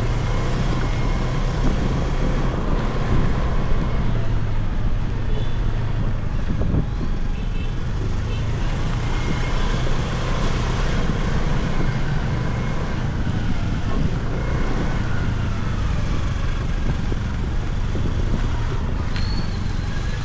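Motorcycle engine running steadily at riding speed, with road and street traffic noise around it.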